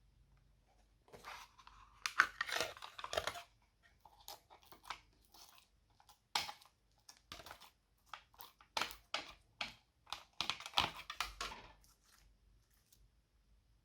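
Slime being squeezed and kneaded by hand, giving bursts of crackling, crunching pops with short quiet pauses between them, four or so squeezes in all.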